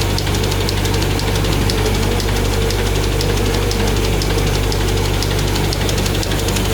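An automatic pull-out facial tissue folding machine running: a steady mechanical hum with rapid, even ticking.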